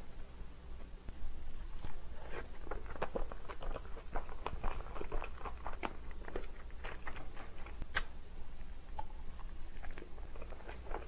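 Close-miked chewing and biting of a soft dumpling: an irregular run of small wet mouth clicks and smacks starting about two seconds in, with one sharper click near the end.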